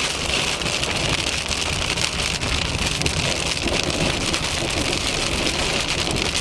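Heavy rain falling steadily on a surface, a dense, unbroken wash of drops.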